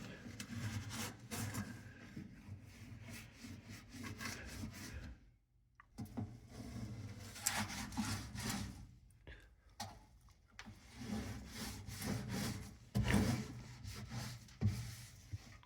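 Paper towel scrubbing and wiping the inside of a dirty microwave in irregular rubbing strokes, with a short silent break about five seconds in.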